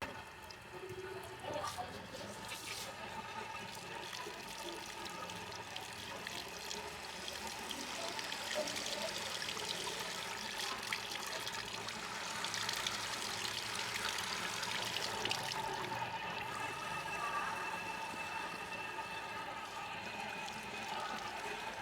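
Water running and splashing steadily while hair is rinsed at a wash basin, a little louder in the middle.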